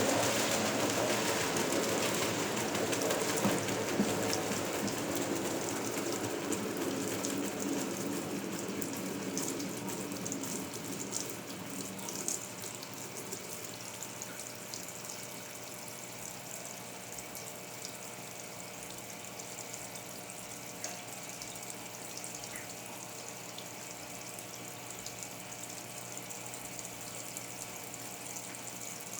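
Water rushing in a 1977 Westinghouse Lavínia washing machine, loud at first and easing over about fifteen seconds to a steady, softer flow, with a faint steady hum beneath.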